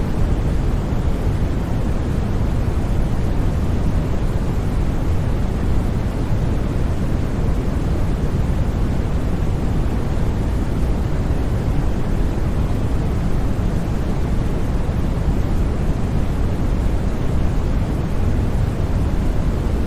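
Steady, unbroken synthetic white noise for sleep, even in level and heaviest in the deep bass, thinning toward the treble.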